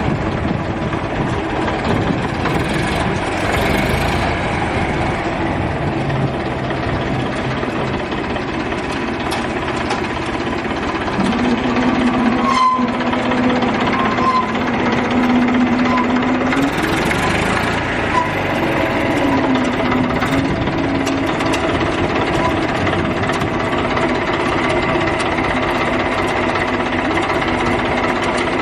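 A small motor running steadily with a rapid, knocking rattle, like a little engine at idle; a held, higher tone joins it for a few seconds around the middle.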